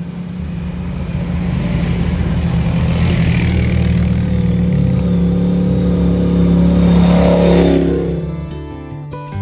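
ATV engine running under load, getting louder and then revving up with a rising pitch about seven seconds in. The engine sound cuts off about a second before the end, and acoustic guitar music comes in.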